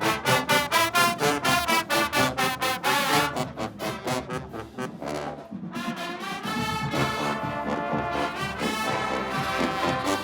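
Marching band playing, brass and drums: short, rapid accented hits for the first three seconds, then, after a brief softer stretch, held brass chords.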